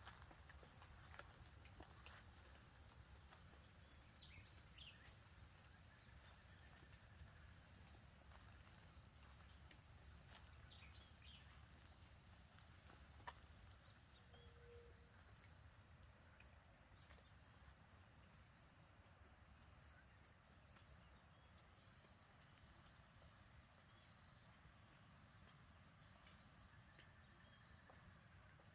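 Faint insect chorus in the rural dawn ambience: a steady high-pitched trill with a slow, regular pulsing beat, joined by a few faint scattered chirps and one short low call about halfway through.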